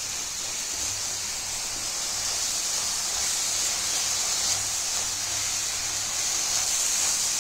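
Peas, corn and onion masala sizzling steadily in hot oil in a steel kadhai as it is stirred.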